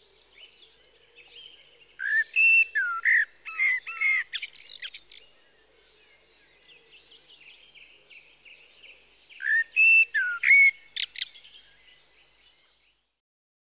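Songbird singing: two bouts of quick chirped and whistled notes, about two seconds in and again about ten seconds in, over fainter continuous twittering that stops near the end.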